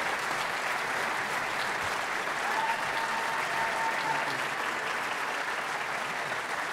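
Audience applauding steadily, easing off slightly near the end, with a brief thin high tone about midway through.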